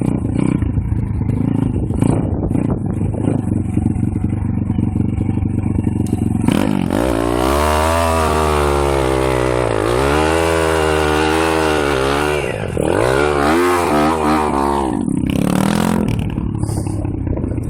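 Pit bike engine running low and rough at first, then revving hard from about six seconds in, its pitch climbing and falling repeatedly for some eight seconds before easing back off.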